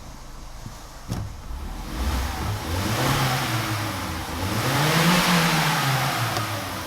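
Car engine revved twice from idle, the pitch climbing and dropping back each time, the second rev going higher, with a single click about a second in.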